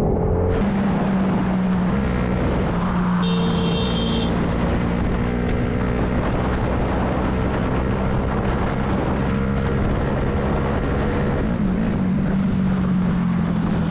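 Steady vehicle engine and road noise while riding in traffic. A brief high-pitched tone sounds about three seconds in and lasts about a second.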